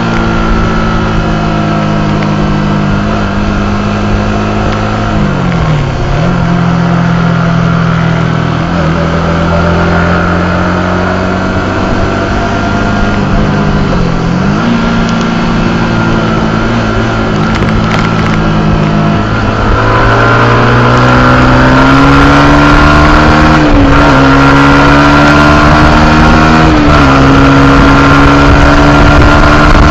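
Yamaha YZF-R125's single-cylinder four-stroke engine heard on board at race pace, its note rising and falling with the throttle. It dips and recovers twice in the first half, then from about two-thirds through it gets louder and climbs in pitch, with a quick drop at each upshift.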